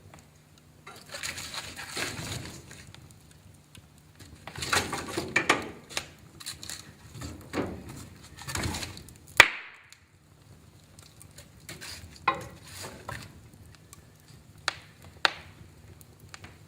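Wood fire in a fireplace crackling and popping irregularly, with one loud sharp pop about nine seconds in and sparser single snaps after it.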